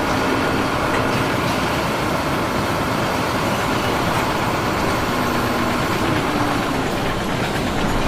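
An engine running steadily, with a dense mechanical noise.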